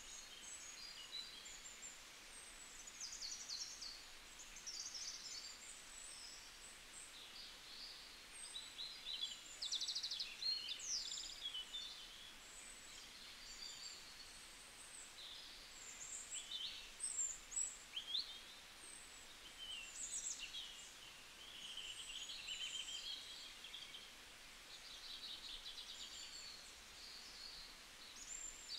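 Small birds chirping and trilling, many short calls overlapping over a faint steady hiss.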